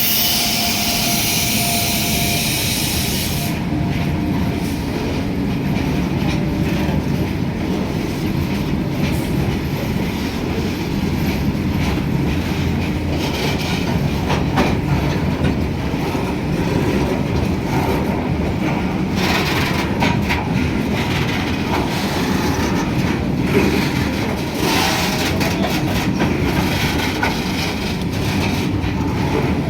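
Train running on the rails: a steady, loud rumble with the scattered clicks of wheels over the rail joints. A high hiss fades out a few seconds in.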